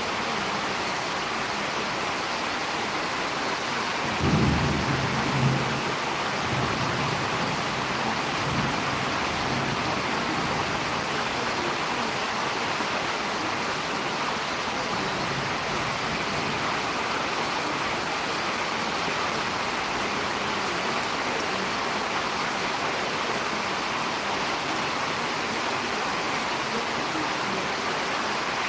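Steady heavy rain falling in a storm. A short, low rumble of thunder comes about four seconds in, with a fainter one a few seconds later.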